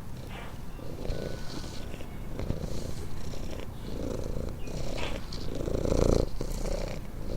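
Domestic cat purring: a continuous rapid low rumble that swells and eases in a slow rhythm.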